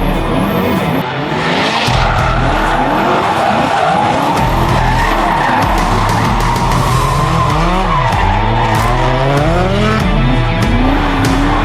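Turbocharged Toyota 1UZ V8 in a drift car, revving up and down over and over while the rear tyres skid and squeal through a drift.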